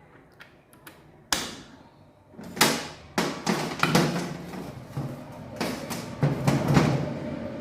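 Metal engine parts knocking and clattering as they are handled and fitted, with a sharp single knock about a second in, then an irregular run of knocks.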